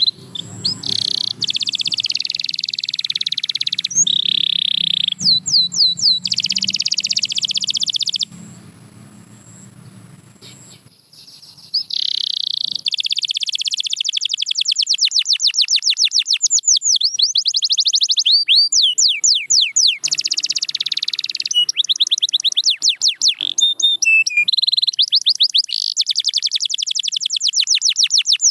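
Canary singing: high-pitched sustained rolls and fast trills of rapidly repeated sweeping notes, with a break of a few seconds about a third of the way through.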